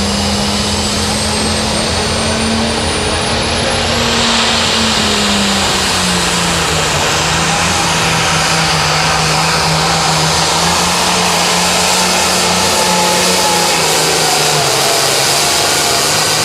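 Limited pro stock pulling tractor's turbocharged diesel engine running flat out under load, with a thin high turbo whistle rising over the first four seconds. The engine note drops slightly about five seconds in and then holds steady.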